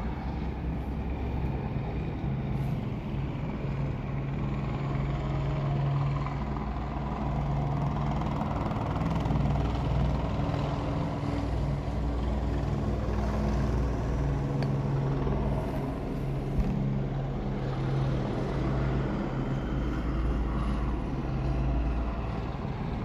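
Helicopter hovering low, a steady drone of rotor and engine with a deep rumble underneath.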